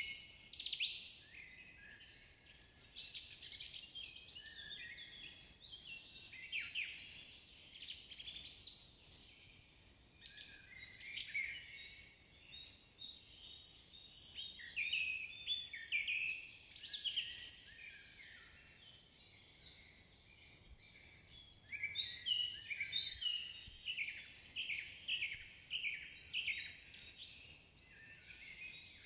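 Small birds chirping and twittering: clusters of short high calls with quieter pauses between, and near the end a run of quick chirps at about two a second.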